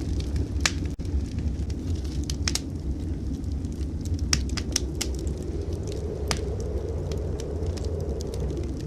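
Wood fire crackling in a fireplace, with irregular sharp pops scattered through, over a steady low rumble.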